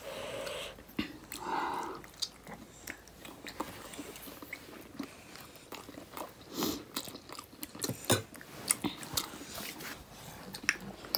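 Close-up chewing and biting while eating momos (steamed dumplings): soft, irregular wet mouth clicks and smacks.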